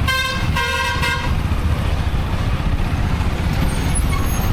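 A vehicle horn honking twice in quick succession, the second blast a little longer, over steady low wind and road rumble from riding a motorcycle through traffic.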